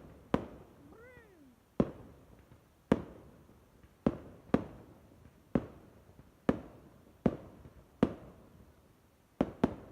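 Fireworks exploding in a series of about a dozen sharp bangs, roughly one a second, each trailing off. About a second in, a short meow-like call rises and falls between the bangs.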